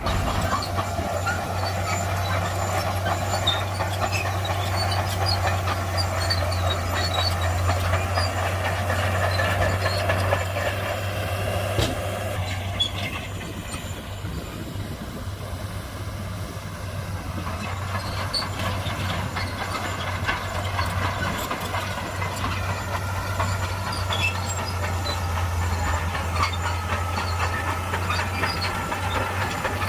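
Shantui crawler bulldozer working: a steady low diesel engine drone, with squeaks and clanks from its steel tracks. The engine and rumble ease off a little around the middle, then build again.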